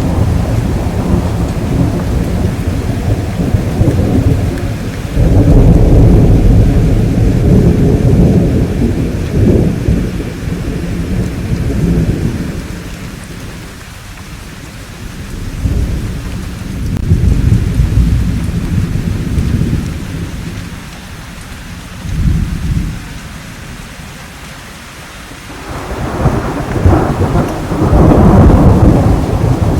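Rolling thunder over steady rainfall, the deep rumbles coming in waves. A long swell of thunder fades to a lull near the middle, with only rain hissing underneath. It then returns in shorter rumbles and builds again near the end.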